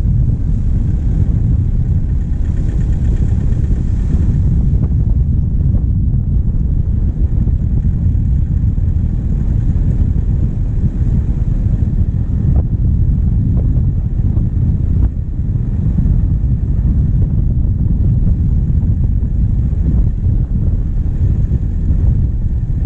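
Diesel engine running steadily as the vehicle drives along, heard close up from the bonnet with low wind rumble on the microphone.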